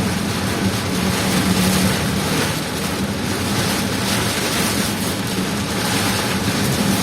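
A vehicle driving through heavy rain and strong wind: a steady wash of rain and wind noise over a constant low engine and road drone.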